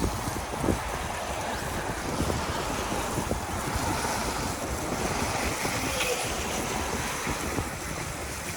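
Wind buffeting the microphone over a steady wash of road noise from riding through wet streets, with a couple of small knocks near the start.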